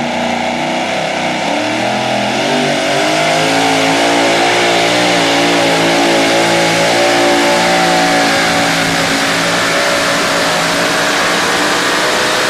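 Two-wheel-drive pulling truck's engine held at high revs under full load during a pull, its pitch wavering slightly up and down.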